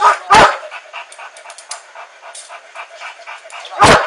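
Police K9 dog barking: two loud barks at the start and another near the end, with quieter rapid crackle in between.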